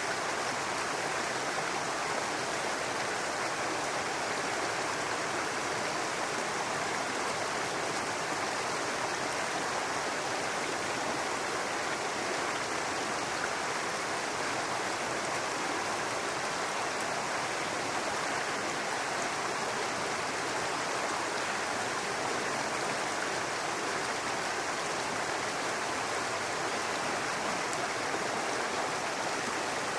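Babbling brook: a steady, unbroken rush of running water.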